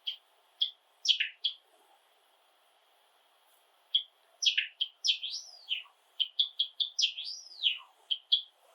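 Java sparrow singing: a few short chirps, a pause of about two seconds, then a quick run of short notes mixed with notes that sweep up and down in pitch.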